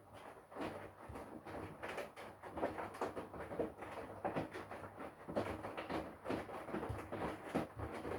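Front-loading washing machine mid-wash: the drum turning wet laundry, with irregular sloshing of water and soft thuds of clothes dropping over a steady motor hum.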